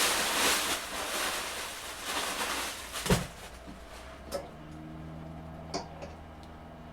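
Rustling handling noise for about three seconds, then a single knock and a few light clicks as things are moved about, with a faint steady hum underneath near the end.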